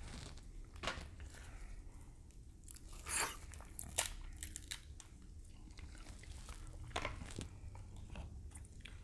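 Close-up eating of grilled king crab legs: scattered sharp cracks and crunches of crab shell between stretches of chewing.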